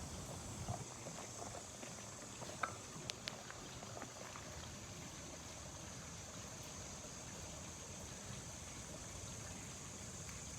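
Faint steady outdoor night ambience: an even high-pitched hiss over a low rushing noise, with a few light clicks about three seconds in.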